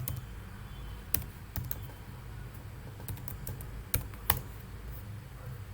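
Computer keyboard keys clicking, about a dozen sharp, irregularly spaced presses over a faint low hum.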